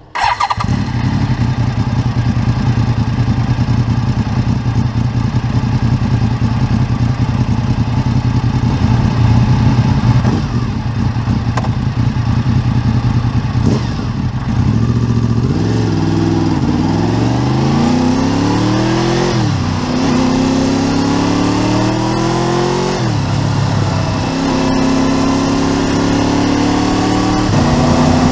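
Honda VFR750 (RC24) V4 motorcycle engine heard close up. It idles steadily, then pulls away and revs up through the gears, its pitch rising and dropping at each of about four gear changes.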